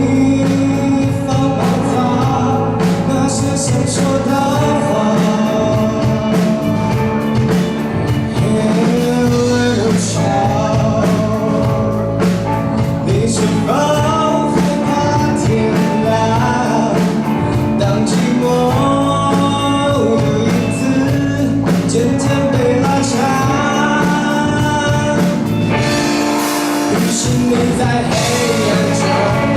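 A live band playing a rock song, with a sung lead vocal over guitar and a steady drum beat.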